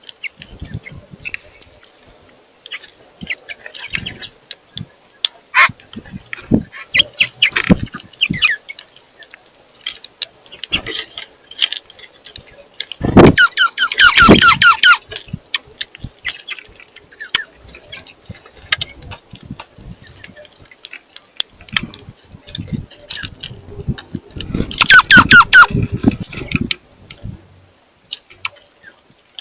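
Birds squawking in two loud bouts of rapid calls, about halfway through and again near the end, amid scattered short chirps and taps.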